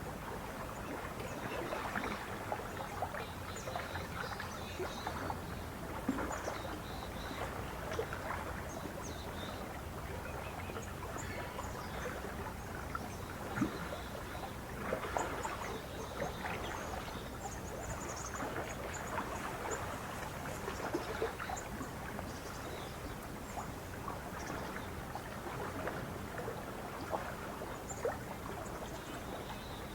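Lake water lapping and splashing at the shore in many small irregular splashes, with faint high bird chirps scattered through it.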